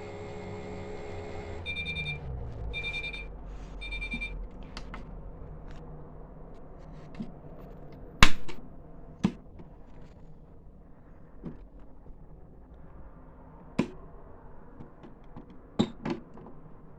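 Toy Miele washing machine's small drum motor humming, then stopping and winding down, followed by three short electronic beeps about a second apart. Then a series of scattered sharp clicks and knocks, the loudest about eight seconds in.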